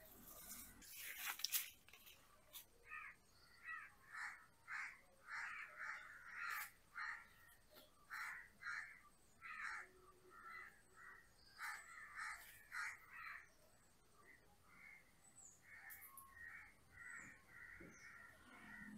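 A bird calling over and over, short calls about two a second, in two runs with a short pause past the middle. A brief burst of noise about a second in is the loudest moment.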